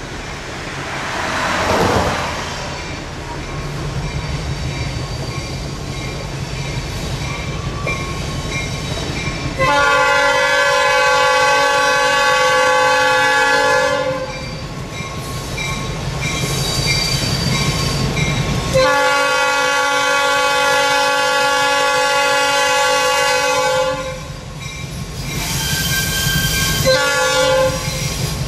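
Diesel locomotive horn sounding two long blasts and then a short one, a multi-note chord over the low rumble of the EMD diesel engines working, the long-long-short of a grade-crossing signal. A brief rushing swell passes about a second in.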